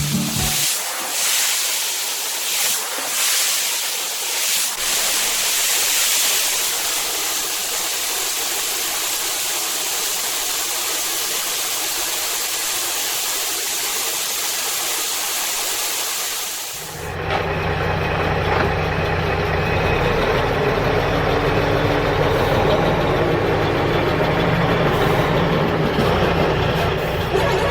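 A steady hiss for about seventeen seconds, then a sudden change to a steady motor-like drone with a held low hum.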